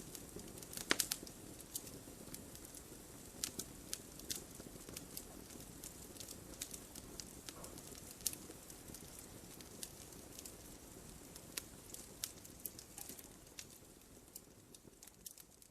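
Wood fire burning in a fireplace, a low steady hiss with sharp irregular pops and crackles, a quick cluster of them about a second in; it fades down near the end.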